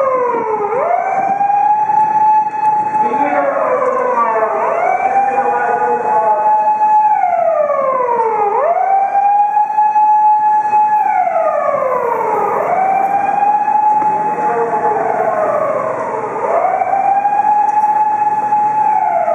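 Emergency vehicle siren wailing: the pitch rises quickly, holds high for a couple of seconds, then slides back down, repeating about every four seconds, over the noise of street traffic.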